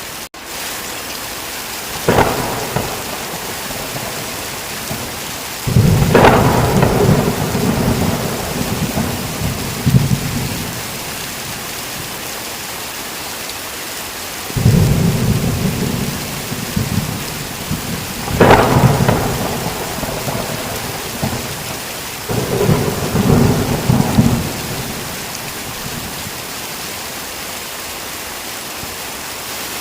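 Heavy rain falling steadily, with thunder rolling through it. There is a sharp crack about two seconds in, then a long low rumble, and later further rumbles with a second sharp crack near the middle.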